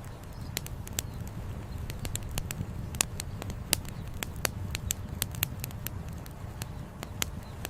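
Wood campfire crackling: irregular sharp pops and snaps, several a second with a few louder ones, over a steady low rumble.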